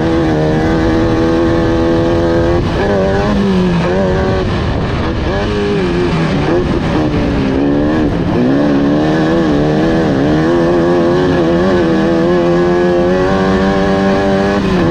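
Off-road race car engines running hard, their pitch rising and falling over and over as they accelerate and back off, with more than one engine heard at once.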